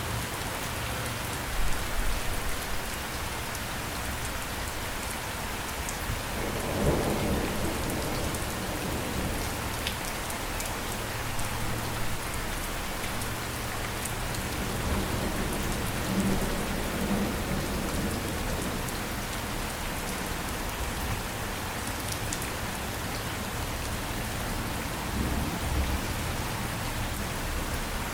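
Steady rain falling, an even hiss of drops, with low rumbles of thunder swelling a few times and some sharper cracks near the start.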